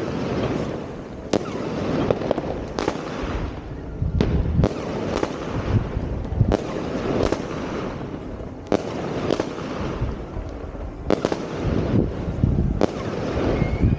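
New Year's Eve fireworks going off: sharp bangs at irregular intervals, roughly one a second, over a steady background rumble of more bursts.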